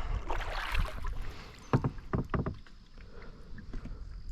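Kayak paddling on a river: paddle blades dipping and splashing, with a few short knocks and splashes in quick succession around the middle.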